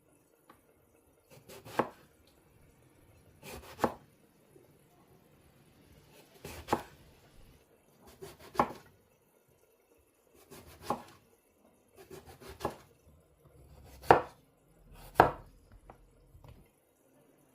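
Knife chopping food on a cutting board: about eight separate cuts spaced a second or two apart, each a short slicing sound ending in a sharp knock on the board.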